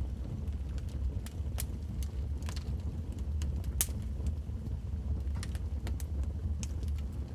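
Wood fire in a fireplace burning with a steady low rumble and irregular sharp crackles and pops, the loudest pop about four seconds in.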